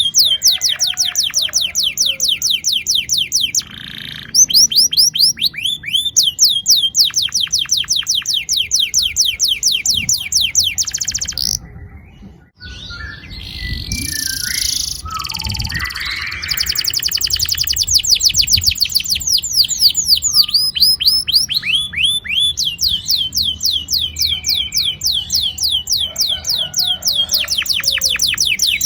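Domestic canary singing long, rapid rolling trills of repeated high down-slurred notes. The roll breaks off briefly near the middle, with some scattered chirps, then starts up again.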